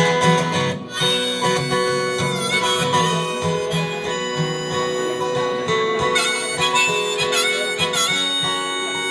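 Instrumental break of a live singer-songwriter song: a harmonica plays held and bending notes over a strummed acoustic guitar.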